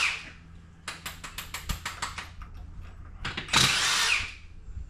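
Power tool working on a wheel's lug nuts, most likely an impact wrench: a run of rapid clicks, then a loud burst of about a second near the end.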